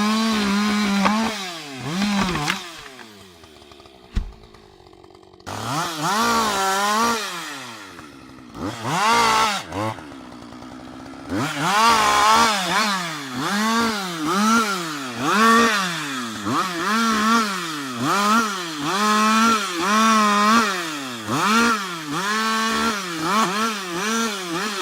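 Husqvarna 560 XP two-stroke chainsaw running steadily at high revs, then dropping off a couple of seconds in. From about six seconds on it is revved up and back down again and again, roughly once a second.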